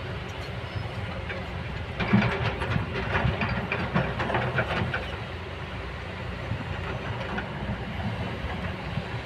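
Kobelco hydraulic excavator running steadily, with a louder stretch of irregular clanking and scraping from about two to five seconds in.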